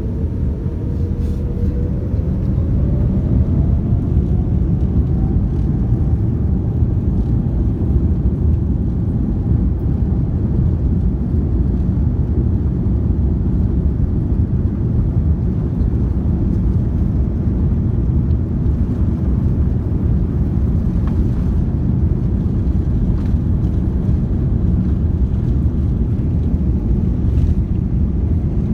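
Boeing 787-9's Rolls-Royce Trent 1000 jet engines spooling up, a whine rising in pitch over the first ten seconds, then a loud steady rumble at high thrust, as in a take-off run.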